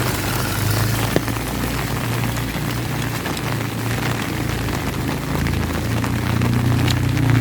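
Steady rain falling, with scattered drops ticking close by and a low steady rumble underneath.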